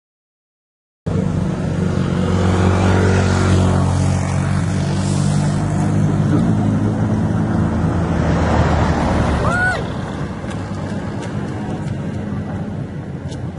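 Komatsu PC200 hydraulic excavator's diesel engine running steadily under load, dropping in level a little before the end. A brief high squeal just before the drop, then a few light clicks.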